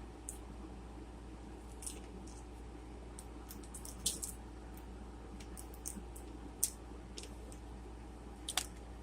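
Someone eating close to the microphone: scattered wet mouth clicks and smacks, a dozen or so, over a steady low hum.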